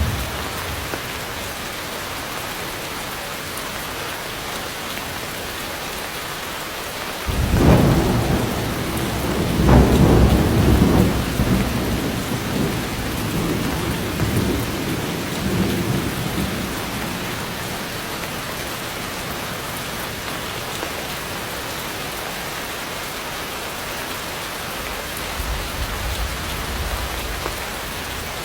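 Heavy rain falling steadily, with a roll of thunder that breaks in suddenly about seven seconds in, peaks a few seconds later and rumbles away over the next several seconds; a fainter low rumble comes again near the end.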